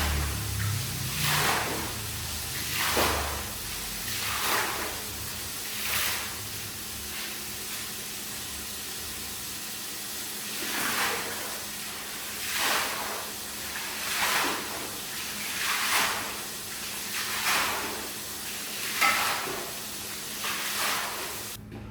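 Repeated swishing strokes of a cleaning tool drawn across a wet shag rug, about one every one and a half seconds, over a steady hiss. The strokes pause for about five seconds partway through.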